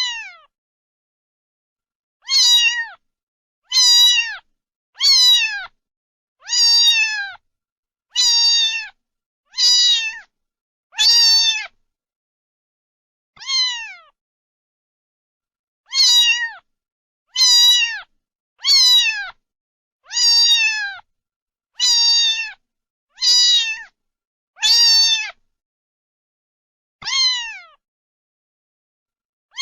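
A cat meowing again and again: about sixteen high-pitched meows, one every second or two, each falling in pitch at its end, with dead silence between them.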